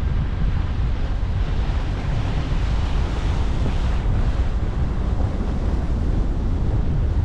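Steady road and wind noise from a car driving, a constant low rumble with a hiss over it.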